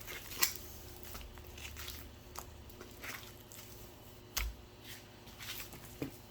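Scattered light kitchen handling noises: a few soft clicks, knocks and squishy rustles, the loudest a knock with a low thump about four seconds in.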